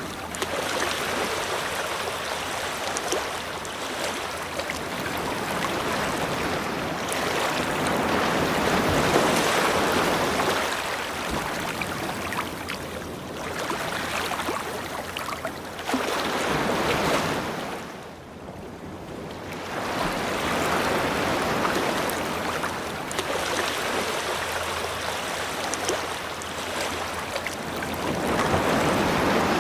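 Ocean waves breaking and washing up a beach in swells that rise and fall every few seconds, with a brief lull about eighteen seconds in.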